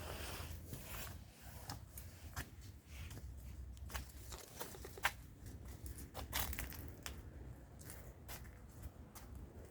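Wind buffeting the microphone as a low rumble, with irregular rustling and crackling throughout and a sharp click about five seconds in.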